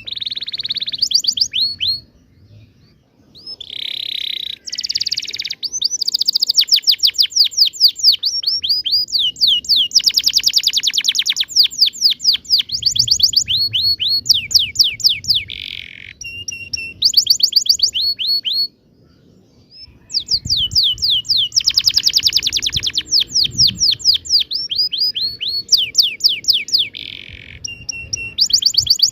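Domestic canary singing a long rolling song: fast runs of repeated downward-sweeping notes and trills, broken by two short pauses, about two seconds in and again about nineteen seconds in.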